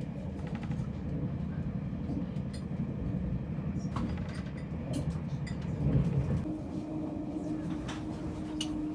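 Moving passenger train heard from inside the carriage: a steady low rumble with scattered clicks and rattles, swelling briefly about six seconds in, with a steady hum coming in soon after.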